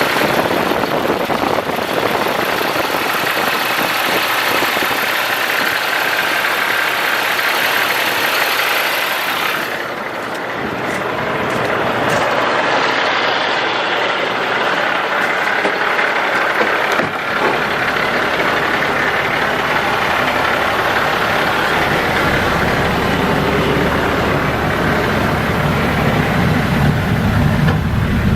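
Caterpillar C7 diesel engine of a Ford F750 water truck running at idle, a steady mechanical noise that dips briefly about ten seconds in; a deeper low rumble joins in during the last several seconds.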